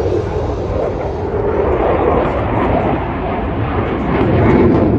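Jet engine roar from Blue Angels jets flying past, a continuous rush that swells to its loudest about four seconds in.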